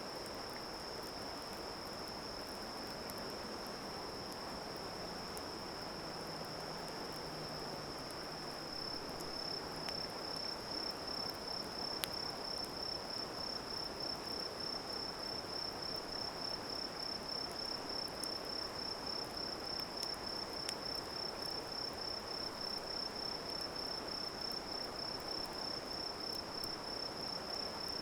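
Insects chirring in one high continuous note that starts to pulse evenly about a third of the way in, over a steady hiss, with a few faint sharp crackles from the campfire.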